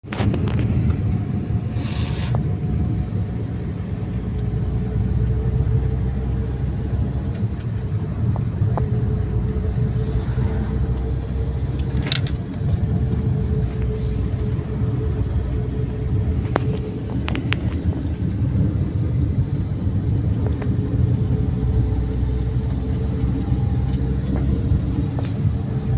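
A vehicle engine running steadily, a continuous low rumble with a droning hum over it, and a few faint clicks.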